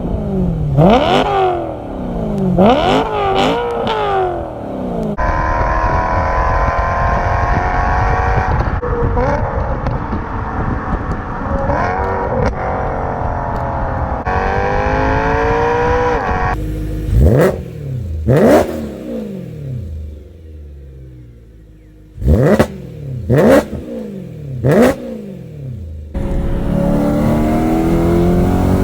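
BMW E9X M3's S65 V8 through aftermarket exhausts, in a run of short clips: sharp free revs that climb and drop quickly, and stretches of the car pulling under acceleration with the engine pitch moving more slowly.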